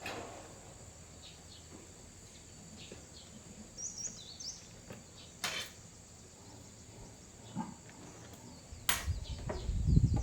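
Outdoor ambience: a steady high insect drone with a few short bird chirps, punctuated by three sharp clicks. Low rumbling bumps come in near the end.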